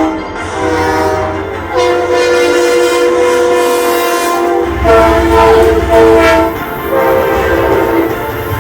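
Model train's sound-system horn blowing a chord of several steady notes in a run of separate blasts, some short and some long, with brief gaps between them. A low rumble joins about five seconds in.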